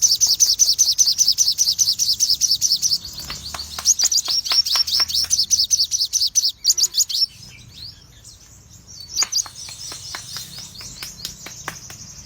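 Albino sogon songbird singing: a fast run of high chirps, about six a second, for roughly the first seven seconds, then softer, scattered notes.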